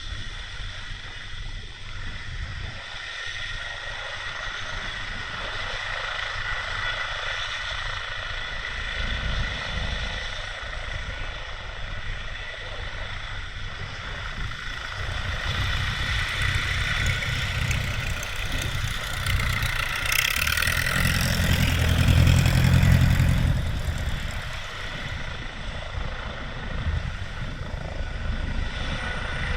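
Helicopter running: a steady high turbine whine over the low beat of the rotor. It grows louder, peaks about 20 to 23 seconds in with a rush of hiss, then eases off.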